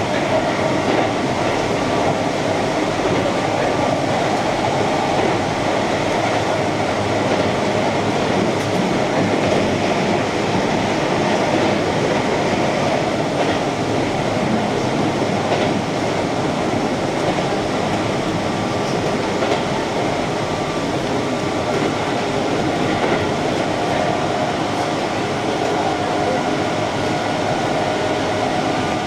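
Keihan electric train running steadily at speed, heard from inside the front car: a continuous rumble of wheels on rail with a few faint clicks.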